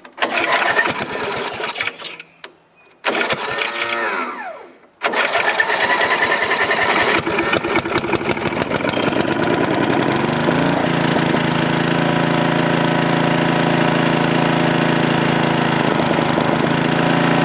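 Sears Companion riding tractor's engine cranked on the starter in two tries, catching about five seconds in on gas poured into its carburetor, after years of sitting. It runs unevenly at first, then settles to a steady run from about eleven seconds.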